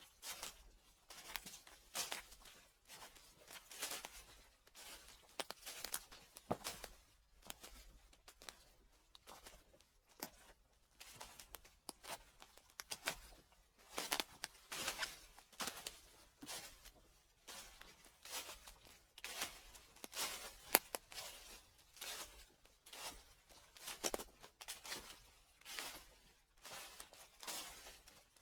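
Footsteps crunching through dry fallen leaves, at a slow, even pace of about one crackling step a second.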